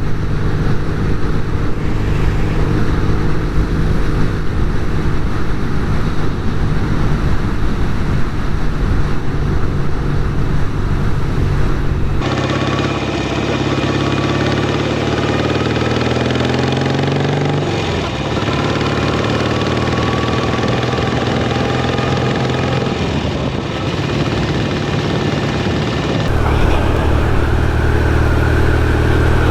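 Norton Commando 850's air-cooled parallel-twin engine running on the road. The revs climb and then drop back about halfway through, and the sound changes abruptly twice.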